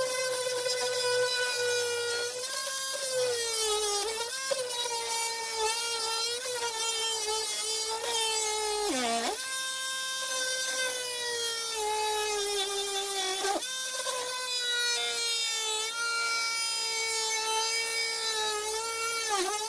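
Cordless power tool cutting through a wooden cabinet panel: a steady motor whine whose pitch sags each time the tool bogs down in the wood, dropping deepest about nine seconds in. It cuts off right at the end as the battery runs too low to get through the cut.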